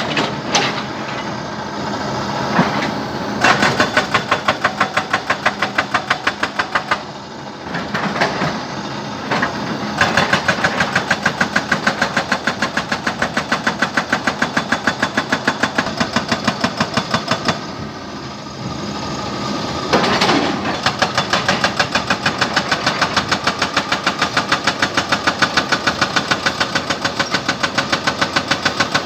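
Jackhammer pounding rock in long runs of rapid, evenly spaced blows, stopping briefly twice, over a steady engine hum.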